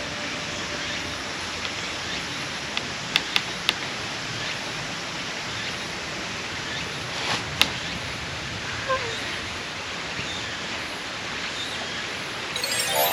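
Steady outdoor background hiss with a few sharp clicks: three in quick succession near the start of the second quarter and a single one a little past the middle.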